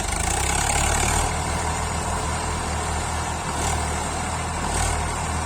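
Tractor diesel engine running loudly as it works to pull free of deep mud, stepping up in level right at the start and then holding steady.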